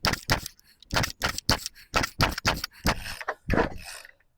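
Recoil starter of an old Craftsman two-stroke chainsaw being pulled again and again, about one pull a second, each pull a short clattering rasp. The engine doesn't catch, which the owner puts down to the choke not being set properly.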